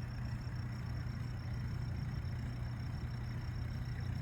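Lake aeration pump running with a steady low hum, a faint high steady tone above it.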